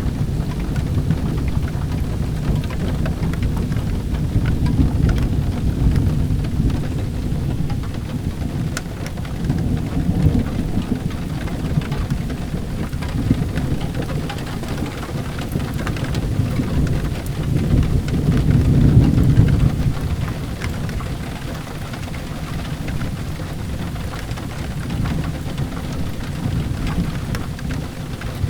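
Steady rain with low rumbles of thunder that swell about ten seconds in and again a little past halfway, with faint crackling of a wood fire in a fireplace.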